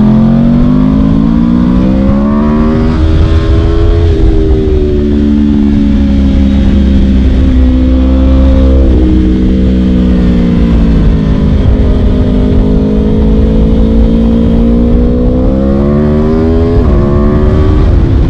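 Aprilia RSV4's V4 engine through an Akrapovic Shorty exhaust, running hard under a rider's throttle. The note climbs over the first few seconds, falls away, and rises again near the end, with sudden breaks in the pitch about nine and seventeen seconds in.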